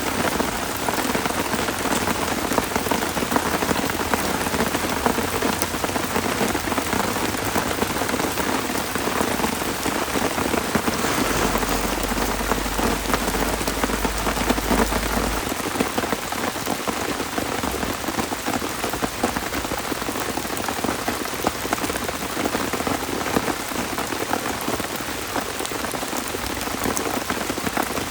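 Heavy rain falling steadily, a dense unbroken hiss. Near the middle a low rumble runs underneath for about four seconds.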